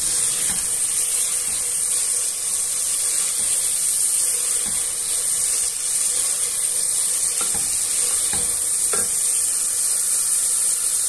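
Tomatoes and onions sizzling steadily in hot oil in a metal pot, while a silicone spatula stirs them with a few soft scrapes against the pan.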